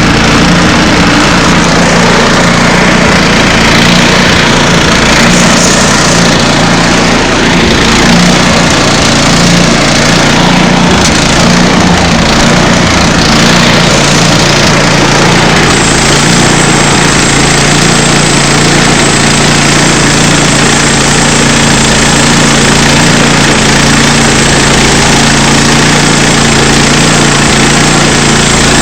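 Small gasoline engine of a portable sawmill running loudly and steadily, with a thin high whine joining about halfway through.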